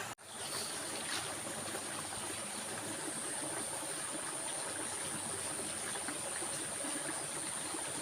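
A stream running steadily, with a thin, steady high-pitched whine above it. Near the start the sound drops out completely for a moment, then fades back in.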